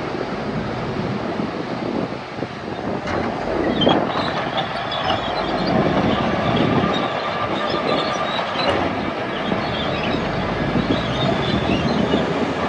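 Crawler bulldozer working, its diesel engine running steadily while the steel tracks clank and squeal, with a few sharper metal clanks.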